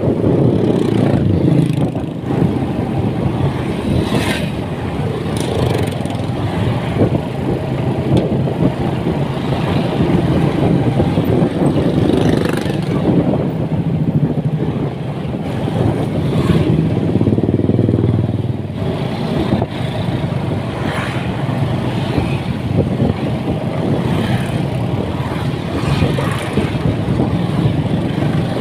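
Motorcycle engine running steadily while being ridden, its pitch rising and falling a little with speed.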